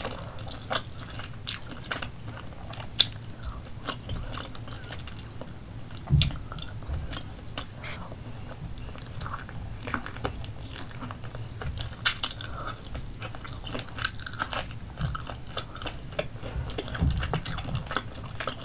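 Close-up chewing and biting of roasted chicken thigh meat pulled from the bone, with wet mouth sounds and scattered sharp clicks and smacks.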